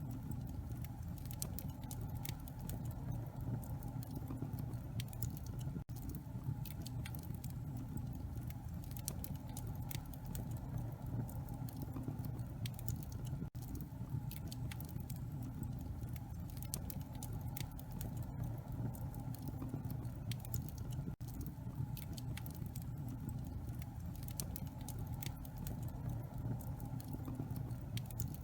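Wood fire in a fireplace crackling, with frequent small irregular pops over a steady low rumble.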